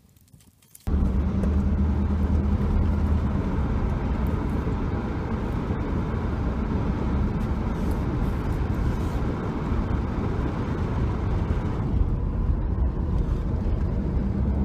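Faint background for about the first second, then a sudden jump to a loud, steady low rumble, like a vehicle on the move.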